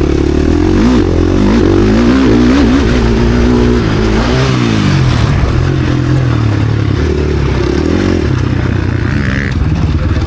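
KTM SX-F Factory Edition four-stroke motocross bike engine under race load, revving up and down repeatedly as the throttle is worked and gears change, its pitch rising and falling.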